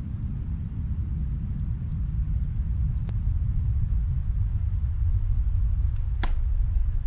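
Fireplace crackling: scattered small pops, with one louder pop near the end, over a steady low rumble.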